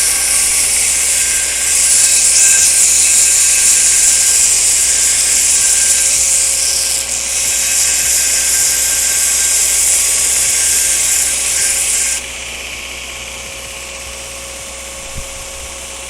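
Belt grinder grinding steel: a loud, steady, high grinding hiss that cuts off suddenly about twelve seconds in, after which the machine runs on more quietly with a faint steady hum.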